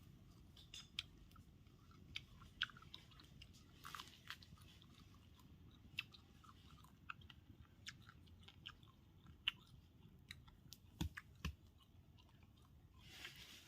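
Faint, irregular crunching and clicking of someone chewing food.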